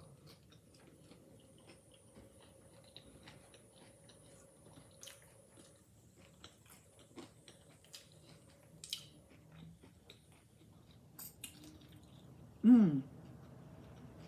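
Close-miked chewing of a crunchy hard-shell taco: many small, crisp crunches and wet mouth clicks scattered through. Near the end comes one short, loud hum from the eater that falls in pitch.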